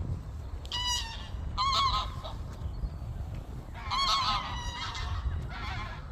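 Water birds calling, a gull and ducks: four short bouts of honking calls, over a steady low rumble.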